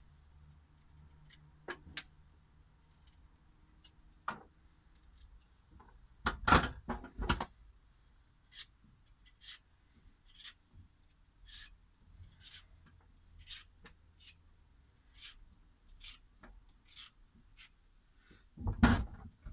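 Root vegetables being peeled: short, sharp scraping strokes in a steady rhythm of about two a second, with a few louder knocks of the vegetables being handled about six seconds in and near the end.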